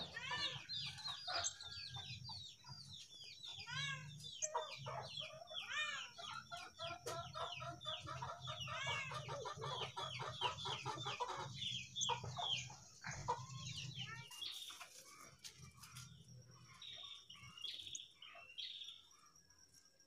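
Birds chirping: a fast, busy run of high, arched chirps for about fourteen seconds, then thinning to a few scattered calls.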